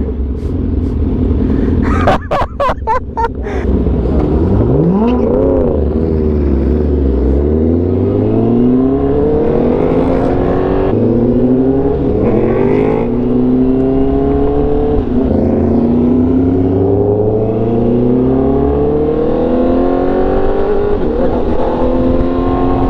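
High-performance engine revving, with a quick run of sharp crackles early on and a rev blip, then accelerating hard through a series of upshifts, the pitch climbing and dropping back again and again.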